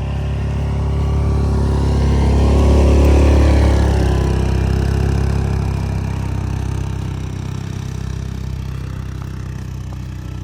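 Engine of a snowplow vehicle running under load while plowing snow, swelling in loudness about three seconds in and then easing back to a steady run.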